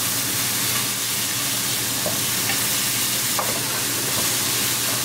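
Diced bell peppers and onions frying in hot oil in a pan, a steady sizzle, while a spatula stirs them, with a few light scrapes of the spatula against the pan.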